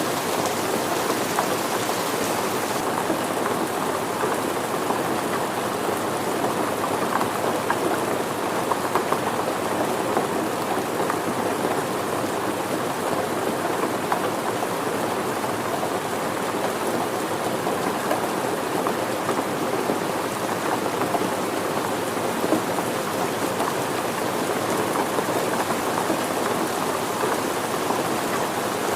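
Steady rain falling on surfaces, an even patter of many small drops with no pauses or changes.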